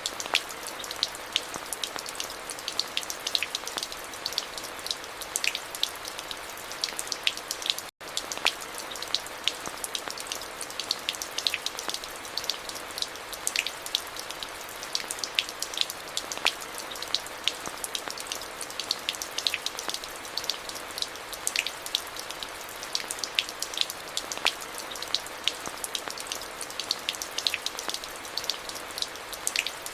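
Steady rain falling, an even hiss with many individual drops tapping sharply on hard surfaces. The sound cuts out for a split second about eight seconds in.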